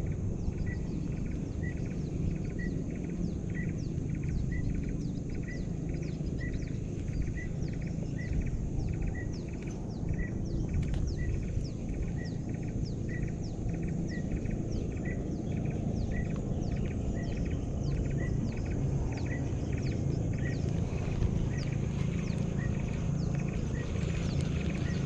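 A bird calling in a steady series of short, high chirps, about two a second, over a low rush of wind and river water.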